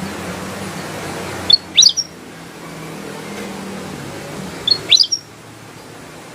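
Kutilang emas, a bulbul, calling twice about three seconds apart. Each call is a short, bright phrase of quick rising whistled notes, heard over a steady background hiss and low hum.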